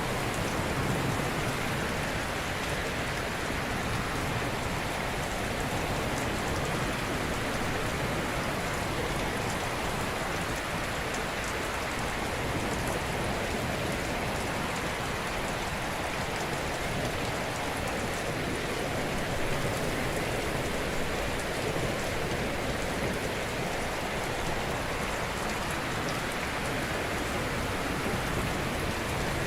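Ocean surf washing gently on a shore: a steady, even hiss of breaking waves.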